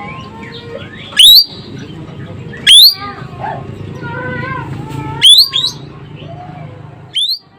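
Ekek keling bird calling: four loud, sharp upward-sweeping whistles about one and a half to two and a half seconds apart, over a steady background of softer warbling bird calls.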